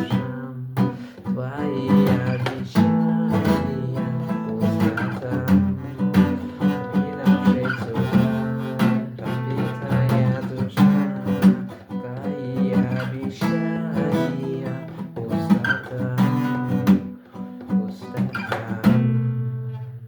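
Acoustic guitar strumming chords in an even rhythm, then stopping abruptly at the end.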